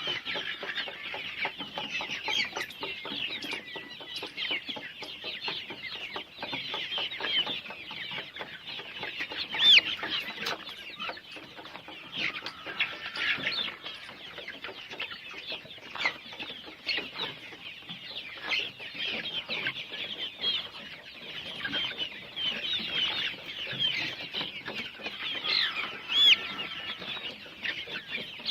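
A flock of young Golden Misri chickens calling together, many short overlapping clucks and calls with no pause.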